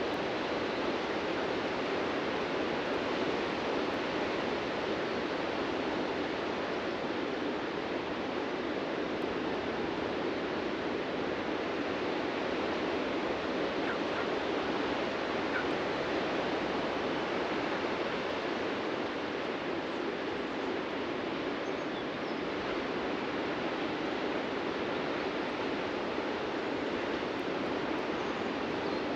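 Ocean surf on a beach: a steady, even wash of wave noise with no single crash standing out.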